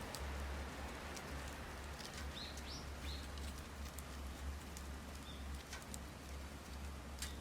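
Wood fire crackling in a steel fire stand: scattered sharp pops over a soft hiss, with a few short high bird chirps a couple of seconds in.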